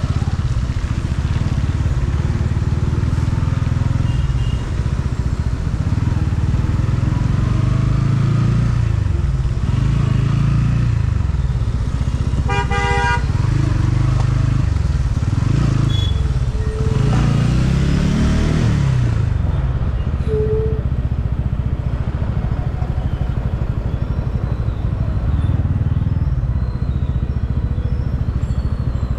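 Motorcycle engine running in traffic, its pitch rising and falling with the throttle, with a short vehicle horn honk about halfway through.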